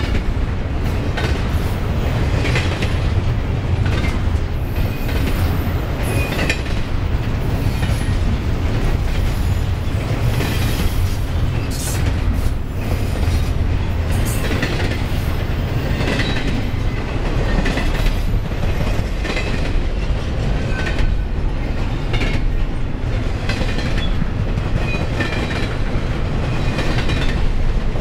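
Freight train of double-stack intermodal well cars rolling past at close range: a steady low rumble of steel wheels on rail, with the clickety-clack of wheels over rail joints and short high squeals now and then.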